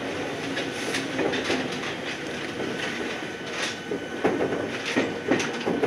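Ohmi Railway electric train running along the line: a steady rolling rumble with irregular clicks of the wheels over rail joints, a few louder ones near the end.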